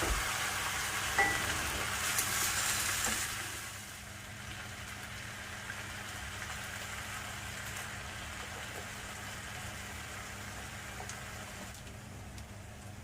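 Food sizzling as it fries in hot oil in a pan, with a few light clicks of a utensil. About three and a half seconds in, the sizzle drops off sharply, leaving a quieter steady hiss over a low hum.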